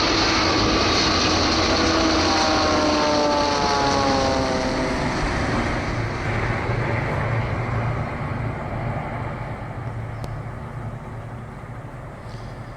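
Air India Boeing 787 passing low by the recording phone: a loud rushing noise with several whining tones that slide down in pitch over the first few seconds, then slowly fading away. The narrator takes it for at least one engine still running.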